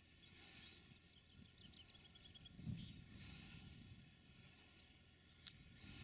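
Faint outdoor ambience: small birds chirping, with a quick run of chirps in the first two seconds, over a low, steady rumble. There is a brief low thump near the middle.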